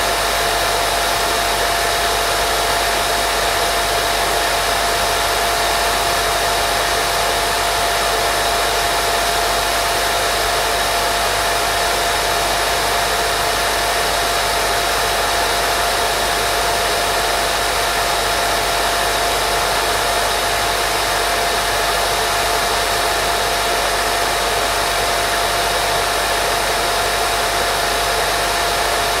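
Continuous white noise for baby sleep: an unbroken, even hiss with a steady whine-like tone running through it.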